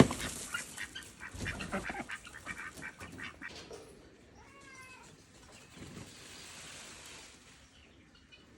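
Wild cockatoo at close range: a sharp click, then a run of quick clicks and taps with a short low call among them, and a few brief chirps about halfway through.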